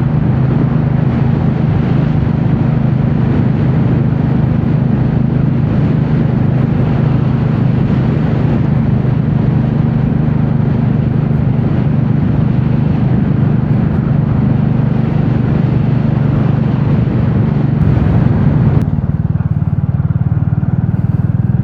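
Royal Enfield Classic 350's single-cylinder engine running steadily under way, with a rush of wind noise over it. About 19 seconds in the wind rush drops away sharply, leaving the engine's steady hum.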